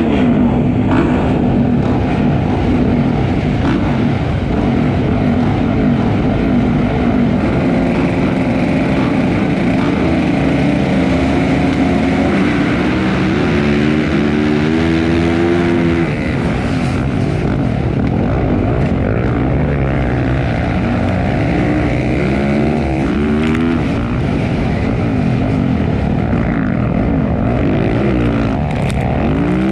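Motocross bikes racing, their engines revving hard and shifting, with the pitch climbing and dropping again and again.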